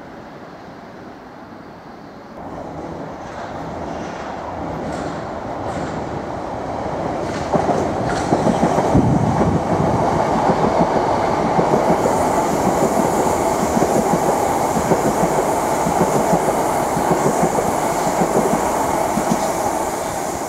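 Southern Class 377 electric multiple unit running through the station. Its rumble builds over the first several seconds, then the wheels clatter over rail joints as the carriages pass close, easing slightly near the end.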